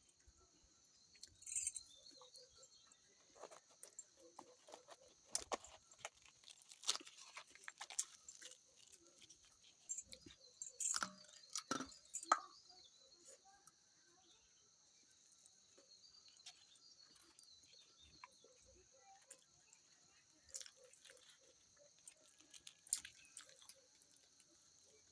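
Scattered clicks and crunches of someone eating close to the microphone, over a steady high-pitched insect drone.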